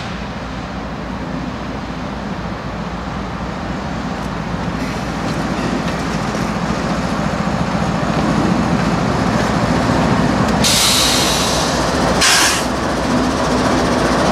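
Train running and drawing closer: a steady low engine drone grows louder. Two short hisses break in near the end, one lasting about a second and a briefer one just after.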